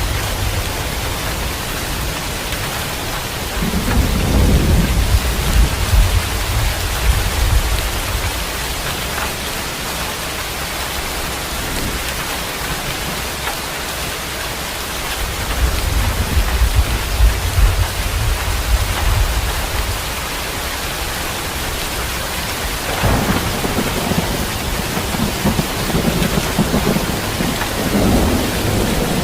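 Heavy rain falling steadily, with thunder rolling in low rumbles three times: a few seconds in, about halfway through, and from about 23 seconds, where a sharper clap opens the rumble.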